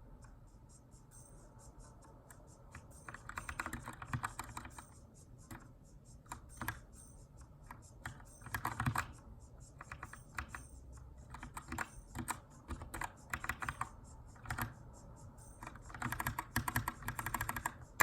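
Typing on a Keychron K2 aluminum mechanical keyboard with brown switches, in short bursts of rapid keystrokes broken by pauses, as during text editing.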